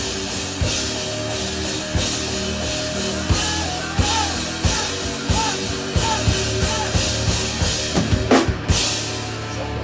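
Live instrumental rock from a three-piece band: a drum kit with steady kick-drum hits and cymbals under held pitched instrument notes, with a quick run of hard drum strokes near the end.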